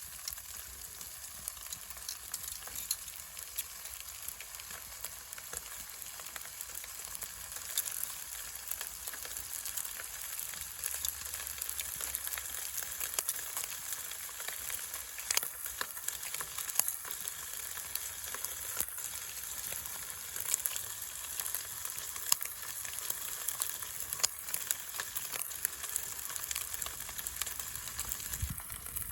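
Marbled beef sirloin steak sizzling in a hot pan greased with beef suet: a steady hiss with many small pops and crackles of spitting fat. It drops away just before the end.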